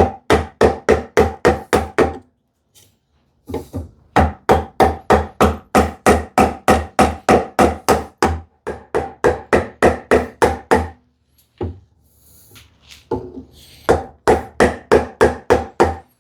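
Mallet tapping a chisel into wood in quick, even knocks, about four a second, with a slight ring to each strike. There are three runs: a short one at the start, a long one from about four to eleven seconds in, and another short one near the end.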